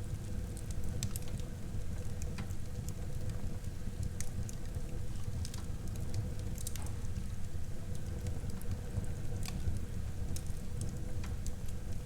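Wood fire burning in a fireplace: a low steady rumble of flames with irregular sharp crackles and pops from the burning wood.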